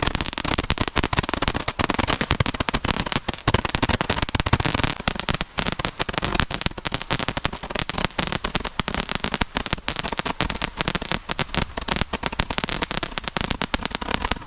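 Consumer multi-shot fireworks cake firing: a rapid, unbroken string of pops and crackles, several shots a second.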